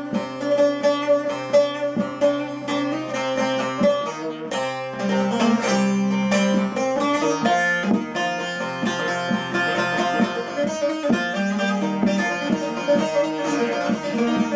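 Saz (bağlama) playing an instrumental passage: a quick run of plucked notes over steadily ringing strings.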